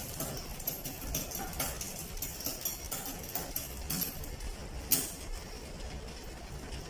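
Irregular light metallic clicks and ticks from work on a mountain bike's derailleur and drivetrain, with one sharp click about five seconds in.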